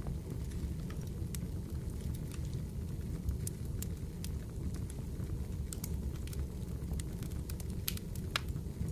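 Fireplace fire crackling: a steady low rumble with irregular sharp pops and crackles, a louder pop near the end.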